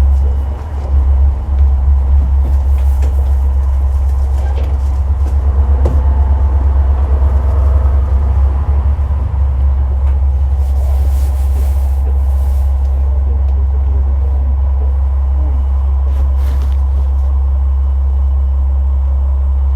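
Onboard running sound of a KiHa 47 diesel railcar under way: a loud, deep rumble of engine and wheels on the rails, pulsing for the first half and then steady. It is muffled, because the phone recording it is in a pocket.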